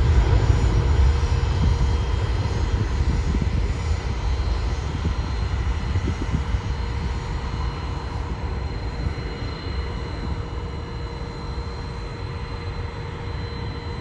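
A passing airplane's engines, a deep rumble with a few steady whining tones above it, fading gradually as the aircraft moves away.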